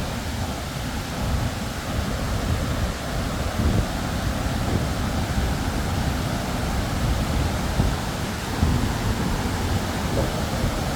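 Large waterfall, a steady rush of falling water with a heavy low rumble.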